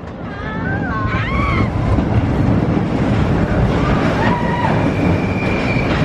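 Expedition Everest roller coaster train running along its track: a loud, steady rumble with wind rushing over the microphone. A few short rising and falling voice-like cries come near the start.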